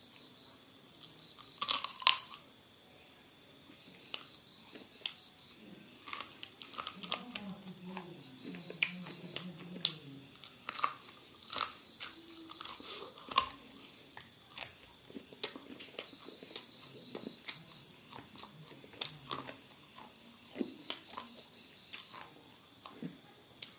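A person biting and chewing food close to the microphone: irregular wet mouth clicks and crunchy snaps, the loudest about two seconds in and again about halfway through.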